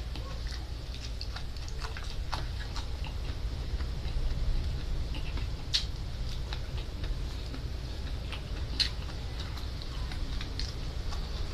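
Close mouth sounds of a person chewing raw salingongo seaweed: irregular crisp, wet clicks and crunches, a few louder snaps among them, over a low steady hum.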